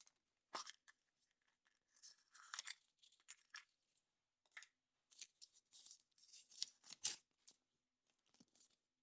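Faint foil wrapper of a chocolate surprise egg crinkling and tearing in short irregular bursts, with a few sharp cracks.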